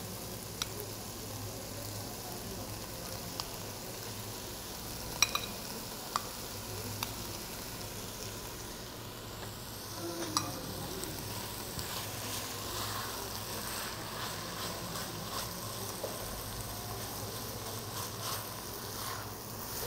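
A tofu filling sautéing in olive oil in a stainless steel pot: a steady low sizzle, with a few sharp clicks and scrapes of a spoon and a silicone spatula against the pot and bowl as crumbled tofu is added and stirred in.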